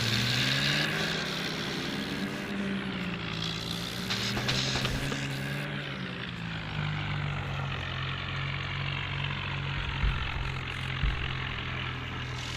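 Tractor engine running, its pitch rising and falling for the first half, then holding steady.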